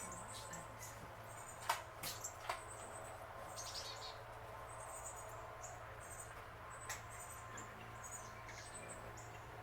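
Small birds chirping: short, high-pitched chirps repeating throughout, with a few sharp clicks about two seconds in and again near seven seconds, over a faint steady low hum.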